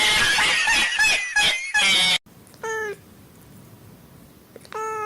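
A domestic cat's loud, harsh yowl that cuts off suddenly about two seconds in, followed by two short meows about two seconds apart.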